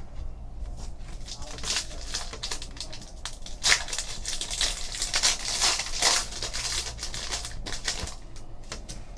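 Foil trading card pack wrapper crinkling and tearing open, with irregular crackles that are loudest midway, over a faint steady low hum.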